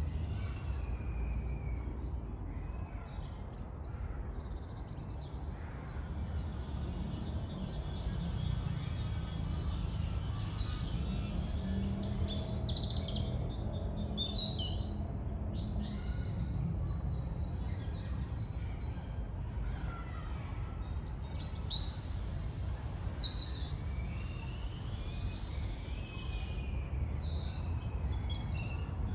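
Several birds singing and calling in a wood, short chirps and trills that grow busier about halfway through. Underneath is a steady low rumble of distant traffic.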